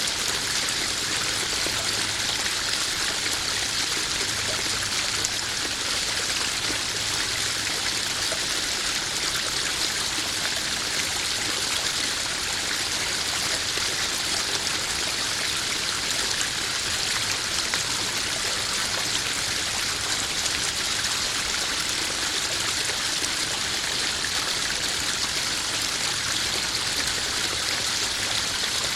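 Small garden waterfall splashing and trickling steadily into a koi pond.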